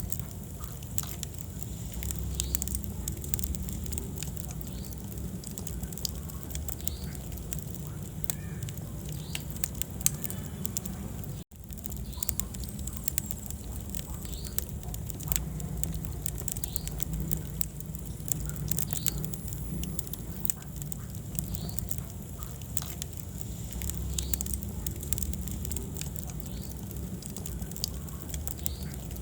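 Wood fire burning in a fireplace: a dense, irregular run of small sharp crackles and pops over a low steady rumble, cutting out for an instant about a third of the way in.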